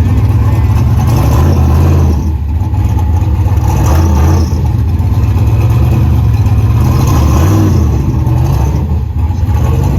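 Loud car engine running hard, its revs rising and falling every few seconds.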